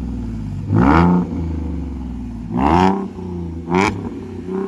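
Toyota Supra's engine idling and being revved in three quick blips, the pitch rising and falling each time: two longer revs about a second in and near three seconds, then a shorter one soon after.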